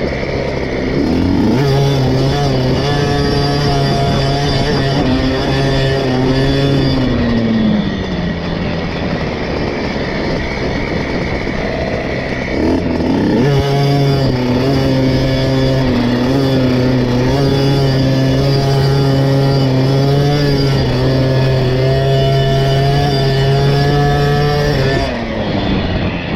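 KTM SX 50's small two-stroke single-cylinder engine ridden hard on a motocross track. The revs climb and hold high for several seconds, fall off about seven seconds in, then climb again around thirteen seconds and hold until they drop back near the end.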